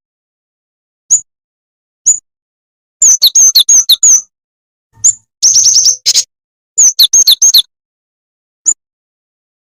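High, sharp chirps of the small bird called jing jing tetep, used as a lure call. Single chirps come about a second apart, then runs of five to eight quick notes that each drop in pitch, near the middle and again about two-thirds of the way in.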